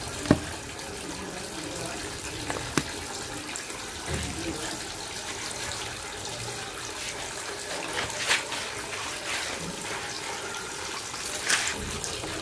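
Water running steadily from a tap, with a couple of sharp knocks in the first few seconds.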